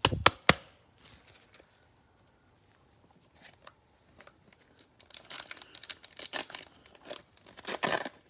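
Cellophane wrapper of a cello pack of football cards being torn open and crinkled: two sharp snaps at the start, then a dense run of crinkling over the second half.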